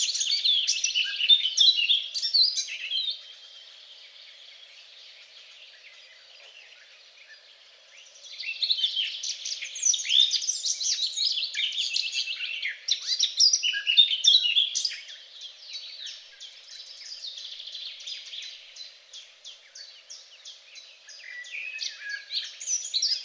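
Several songbirds singing together, a busy mix of high chirps, whistles and trills that drops to faint for a few seconds near the start, then picks up again. Later comes a long, rapid trill of quickly repeated notes.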